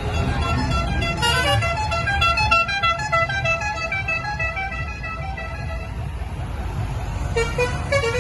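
Musical vehicle horn playing a tune of quick stepped notes for several seconds, with a few more notes near the end, over a low, steady engine rumble.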